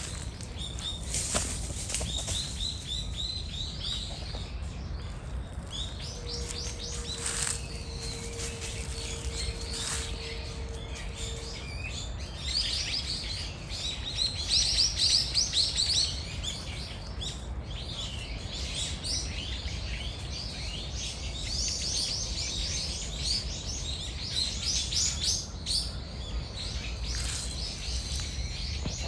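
Small birds chirping busily, quick high notes in dense runs, loudest a little past the middle and again near the end, over a low steady rumble. A steady mid-pitched hum sounds for several seconds early on.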